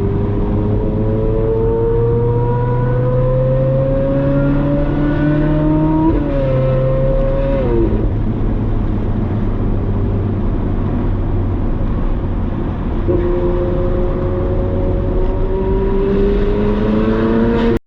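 Ferrari 458 Spider's V8 through a Brilliant aftermarket exhaust, pulling with its pitch rising steadily for about six seconds. Then it drops and falls away off the throttle, runs lower for a few seconds, and climbs again under acceleration until it cuts off suddenly.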